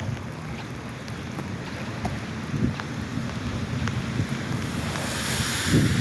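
Wind buffeting the microphone over steady rain, with a few soft knocks and a hiss that swells up about five seconds in.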